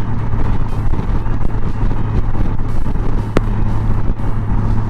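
Honda Gold Wing's flat-six engine cruising at highway speed, a steady drone mixed with road and wind noise. A brief click sounds about three and a half seconds in.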